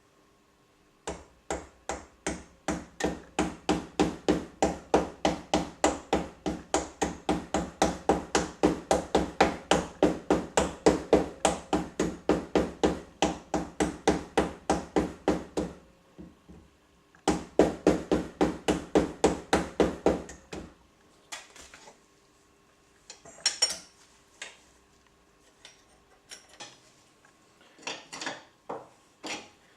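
Hammer blows on metal during steering head bearing work, a fast steady series of about four strikes a second, then a pause and a shorter second series. After that come a few scattered lighter metal clinks, as tools are handled.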